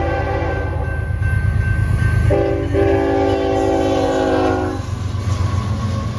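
Norfolk Southern diesel freight locomotives at a grade crossing, sounding their multi-note air horn. One blast ends about a second in, then a second blast runs from about two seconds to nearly five, over the heavy rumble of the engines.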